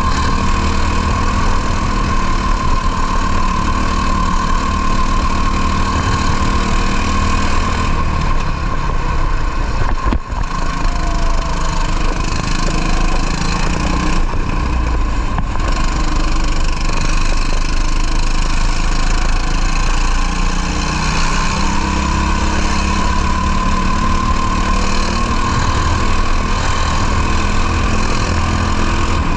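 Racing kart engine running hard at race pace, heard from an onboard camera on the kart, its pitch wavering through the lap with a brief dip about ten seconds in.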